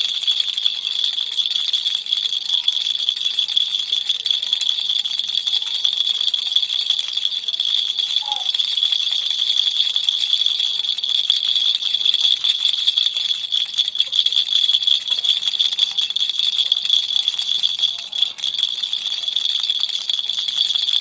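Baby toy rattle shaken continuously: a steady, dense rattling with a high, bright edge, briefly easing about eighteen seconds in.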